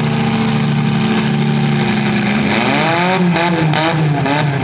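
Demolition derby car engines running loudly at a steady speed, then from about halfway one engine is revved up and down in about five quick blips.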